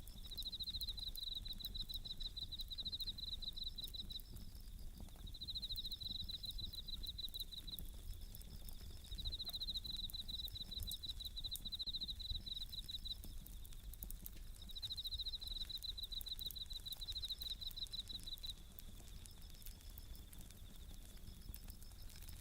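Bell crickets (suzumushi) singing in trilled phrases of about three to four seconds with short pauses between, weaker near the end, over faint scattered crackles of a wood campfire.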